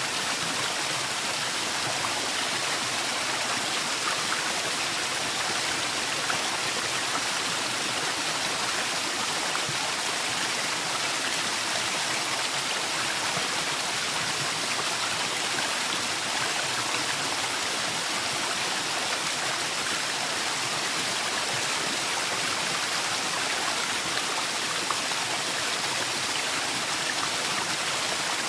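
Forest waterfall splashing steadily: an unbroken rush of falling water with no let-up.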